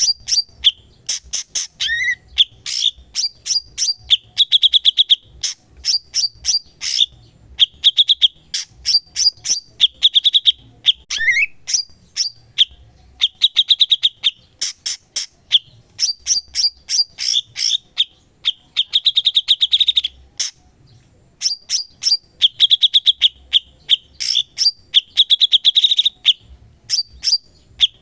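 Cucak cungkok singing continuously in short, fast bursts: rapid buzzy trills alternating with sharp, clicking chips, each phrase about a second long with brief pauses between, and a slightly longer pause about two-thirds of the way through.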